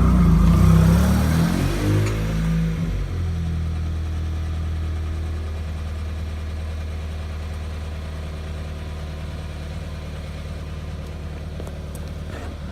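Subaru WRX's turbocharged flat-four engine running through a catless exhaust with no mufflers. The revs drop away over the first few seconds, and the engine settles into a steady idle.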